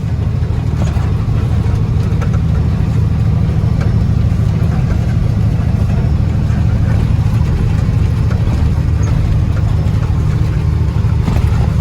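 Truck running on the road, heard from on board: a loud, steady low rumble that stops abruptly at the end.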